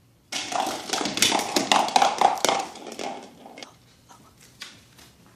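A dog scuffling with a rubber balloon: about three seconds of dense scratching, rubbing and quick clicks, then only a few faint taps.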